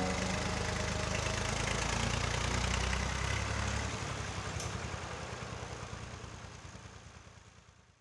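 Massey Ferguson 240 tractor's three-cylinder diesel engine running steadily with a fast, even knock of firing pulses, fading out over the last four seconds.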